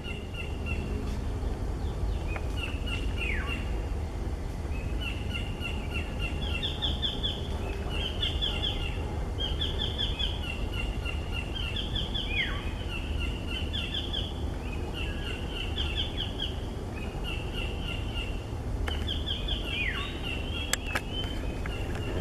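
A wild bird singing repeated phrases of quick, high, stepped notes, with a steeply falling whistle three times, over a steady low rumble.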